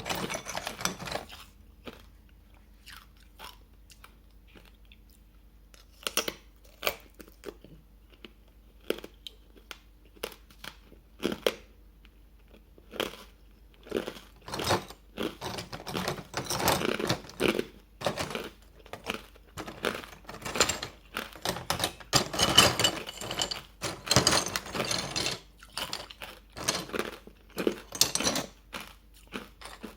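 Hard matcha-powder ice being bitten and chewed, crunch after crunch. The crunches are sparse and separate at first, then become dense and steady from about halfway through.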